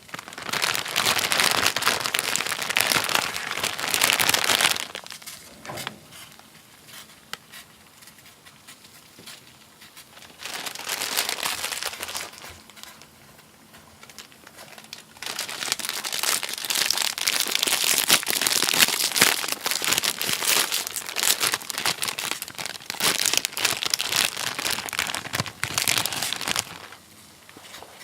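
Crinkling and crumpling of a packaging wrapper being handled, in three stretches: a long one at the start, a short one near the middle, and a longer one through the second half.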